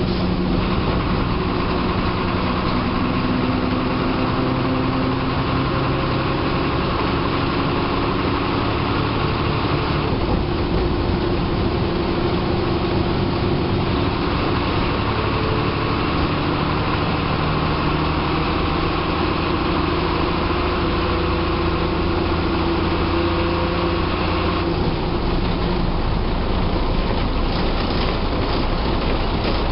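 Diesel engine of a state transport bus running as the bus drives along, heard from the driver's cabin together with road noise. The engine note shifts several times, at about ten, fourteen and twenty-five seconds in, as the engine speed changes.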